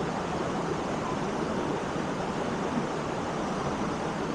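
Waterfall rushing into its pool, a steady even roar of falling water.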